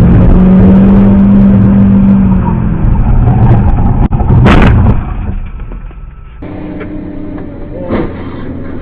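Car engine and road noise heard from inside a vehicle, with a short sharp burst of noise about four and a half seconds in. The sound drops off abruptly about five seconds in.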